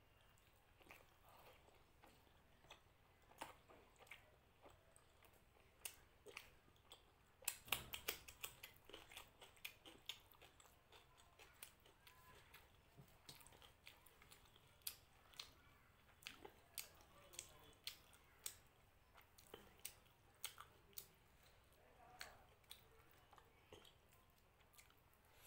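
Close-up eating sounds of a person chewing luchi soaked in mutton curry: soft chewing with many small wet clicks and smacks. There is a dense run of louder ones about eight seconds in.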